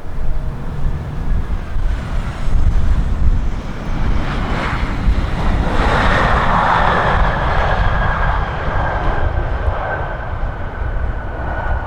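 Airliner passing close on its landing approach: engine rush swells to a peak about halfway through, with a steady whine that slowly falls in pitch. A low rumble of strong wind on the microphone lies underneath.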